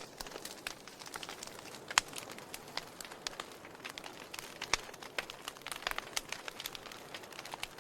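Wood fire in a fireplace crackling: irregular sharp pops and snaps over a soft hiss, with the loudest pop about two seconds in.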